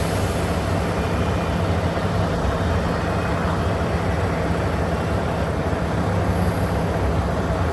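Mack GU713 dump truck's diesel engine running steadily at an even pitch.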